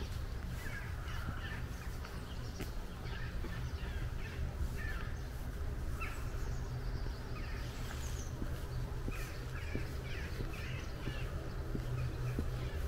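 Birds calling over and over in short calls, heard over a steady low rumble.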